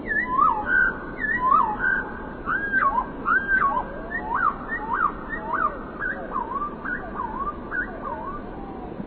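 Songbirds whistling: a quick series of short, clear notes, each sliding up or down in pitch, over a steady hiss underneath.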